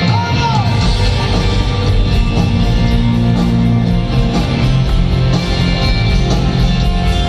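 Live rock band playing an instrumental passage: electric guitar over bass and a steady drum beat, with sustained chords held underneath.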